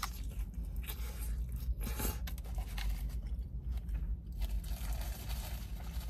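Close-miked chewing of a lettuce-wrapped burger: wet crunching of crisp lettuce with small crackles through the bites.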